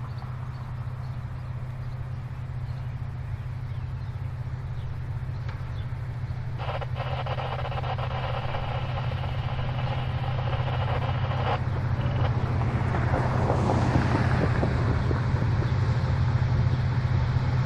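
Diesel freight locomotives approaching with a low engine rumble that grows steadily louder; about seven seconds in, a locomotive horn sounds one steady chord for about five seconds and cuts off. Wheel and rail noise builds near the end as the train draws close.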